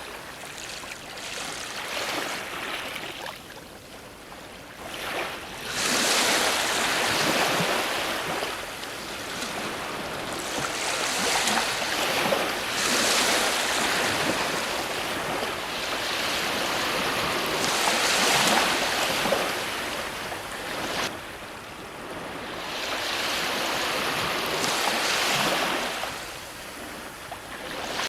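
Ocean waves breaking on a shore and washing back, a steady surf noise that swells with each breaker every few seconds and eases in the lulls between.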